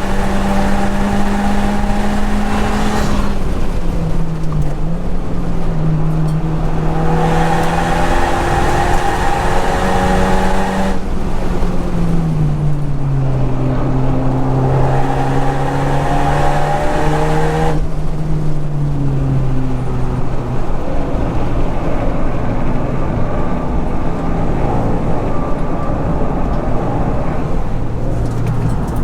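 Honda Civic Type R (FK8) 2.0-litre turbocharged four-cylinder engine running hard on track, its note stepping and gliding up and down in pitch as revs change. A steady rushing hiss runs with it and thins out after about eighteen seconds, where the engine settles lower.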